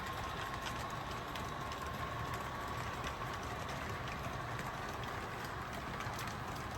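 Model train running on the layout: a steady mechanical hum with a faint whine, and light clicks as the wheels pass over rail joints about once a second.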